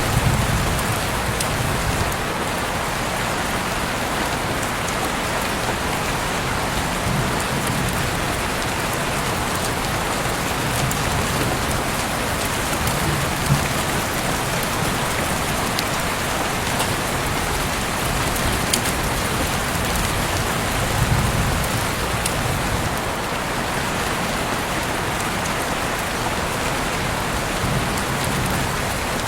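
Heavy rain pouring steadily, a dense even hiss, with a few sharper drop ticks now and then.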